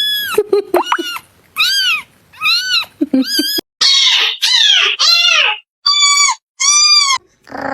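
A cat meowing in a quick series of about eight short, high-pitched calls, each rising and then falling in pitch, with brief pauses between them.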